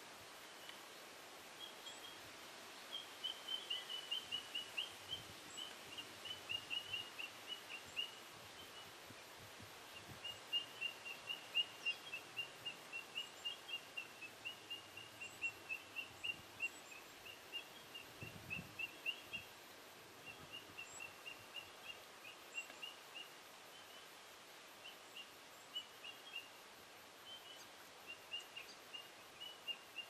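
Small birds chirping in a long run of short, high notes, about four a second, with a few brief pauses, over faint outdoor background noise.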